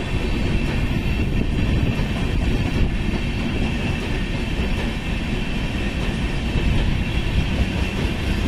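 Indian Railways passenger train's red-and-grey coaches running past at speed on the nearby track: a steady, loud rush of wheels on rails.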